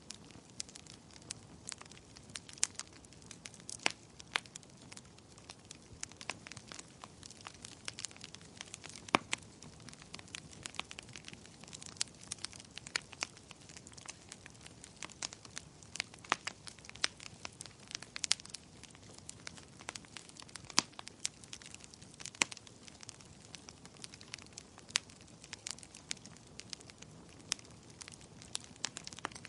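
Wood fire crackling and popping: irregular sharp snaps, several a second, over a soft steady hiss of burning.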